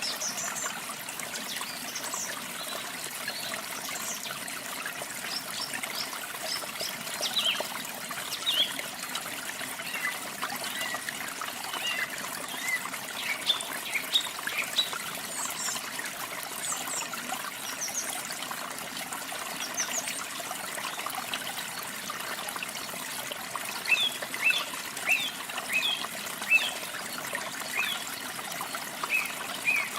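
Steady trickling and splashing of falling water, with birds singing over it in short, high chirps and trills.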